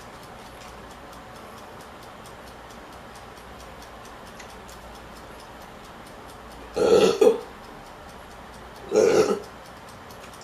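A person burping twice, each burp about half a second long and about two seconds apart, over faint regular ticking.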